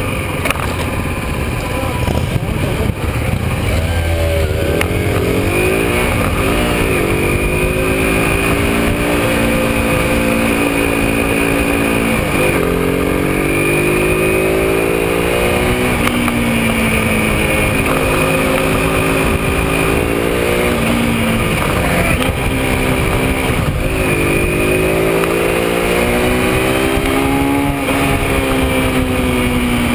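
125 cc sport motorcycle engines running under way. Their pitch climbs as they accelerate and drops sharply at each gear change, several times, over a steady rushing noise.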